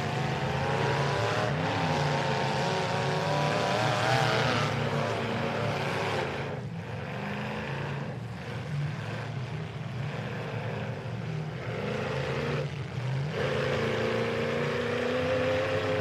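Demolition derby truck engines revving hard, their pitch climbing and falling as the trucks spin wheels and push against each other. The revving eases in the middle and picks up again near the end.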